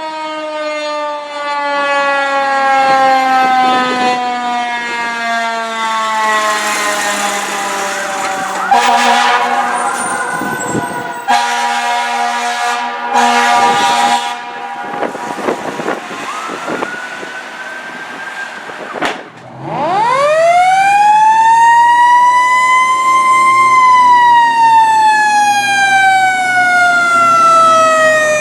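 2020 Rosenbauer Commander fire engine responding: its siren winds down in a long falling wail, and several blasts of the air horns follow around the middle. The siren then spins up quickly to a peak and slowly winds down again.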